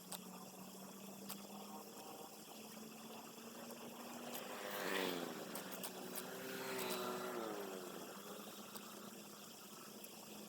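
An engine passes by twice in the middle, each time swelling and then dropping in pitch as it goes past, over a steady low hum and a few light clicks.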